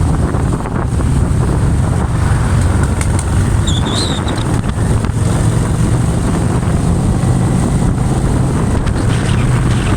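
A motorbike engine running steadily, buried in heavy wind noise on the microphone.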